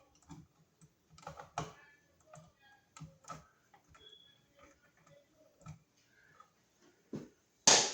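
Electrical wires being twisted and handled in an outlet box: irregular light clicks and scrapes, with one sharp, loud click near the end.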